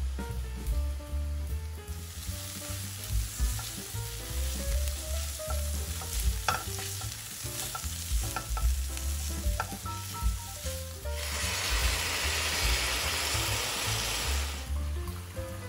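Sliced onion, red pepper and sundried tomatoes frying and sizzling in a stainless steel pan while being stirred with silicone-tipped tongs, with a few sharp clicks of the tongs against the pan. About eleven seconds in the hiss grows louder for a few seconds as liquid is poured into the hot pan.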